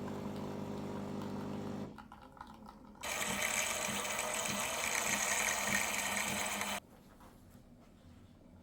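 A small electric motor runs with a steady buzz for about two seconds. About a second later a louder, hissing whir runs for nearly four seconds and cuts off suddenly.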